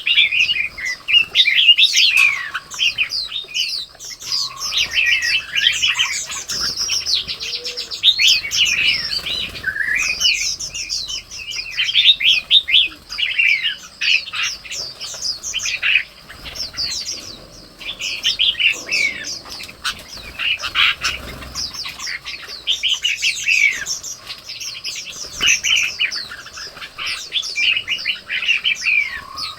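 Songbirds chirping and twittering without a break, many short calls and quick trills overlapping.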